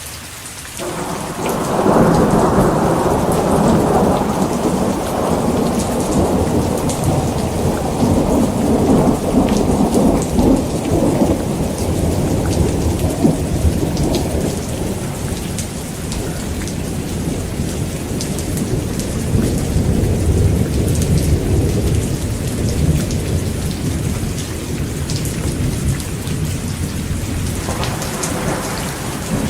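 Heavy rain falling steadily with rolling thunder: a long, deep rumble builds about a second in and slowly fades over the next twenty seconds, and another rumble begins near the end.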